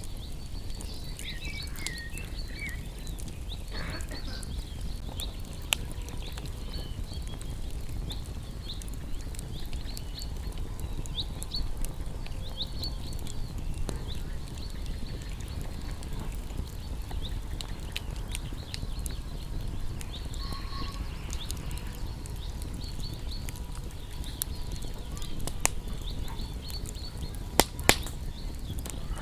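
Wood fire crackling with scattered sharp pops, two louder ones near the end, over a low steady rumble, while small birds chirp and twitter high-pitched throughout.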